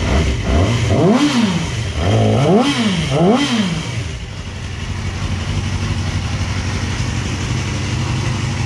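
Yamaha R6 sport bike's inline-four engine blipped three times in quick succession, each rev climbing and dropping back, then settling into a steady idle.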